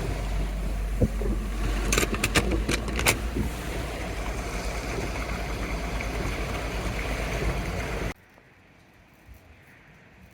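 Steady rumble of a car running, heard from inside the cabin, with a few sharp clicks about two to three seconds in. The rumble cuts off abruptly after about eight seconds, leaving only a faint low background.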